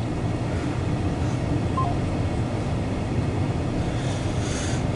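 Steady rumble of a CSX intermodal freight train's cars rolling past.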